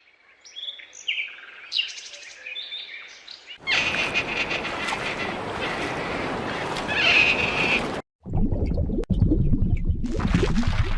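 Birds chirping in separate cut-together recordings: high chirps, then from about three and a half seconds chirping over a loud hiss of outdoor noise, which stops abruptly at about eight seconds and gives way to a loud, low, rough noise.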